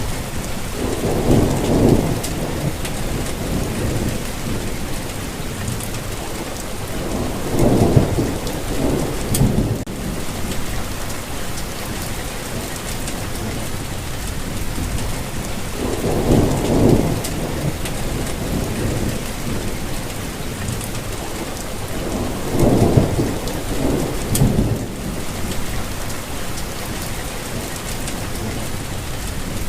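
Steady rainfall, with a short low rumble about every seven seconds, four in all.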